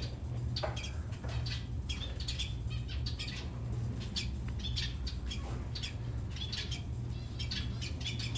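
Small birds chirping, many short chirps in quick succession, over a steady low hum.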